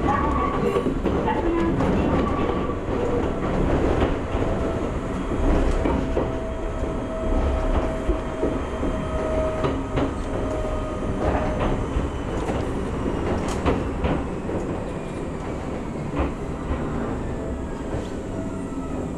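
Single-car electric train (Gakunan Railway 7000 series, ex-Keio 3000) running over rail joints and points, heard from the cab: a steady rumble with frequent wheel clicks and knocks, and a thin steady tone held through the middle. Near the end a whine falls steadily in pitch as the train slows into a station.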